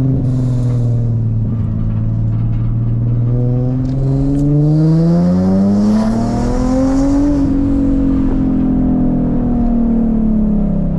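Car engine through a custom titanium single-exit exhaust with ART cats and a titanium Y-pipe, droning steadily, then accelerating from about three seconds in with the pitch rising to a peak about seven seconds in, then easing off with the pitch slowly falling.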